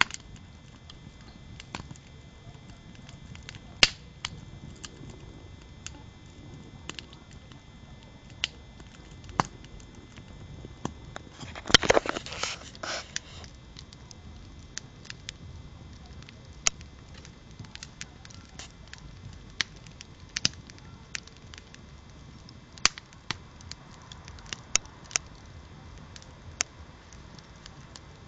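Wood campfire crackling, with scattered sharp pops over a low steady rumble of the flames and a dense flurry of crackles about twelve seconds in.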